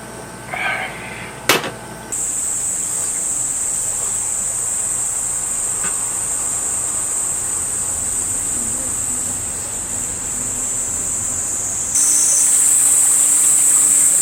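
Insects, crickets or cicadas, chirring in a steady high-pitched chorus. It starts abruptly about two seconds in and grows louder near the end.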